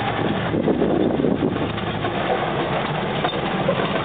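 Engine of a homemade truck running steadily while it drives, running well.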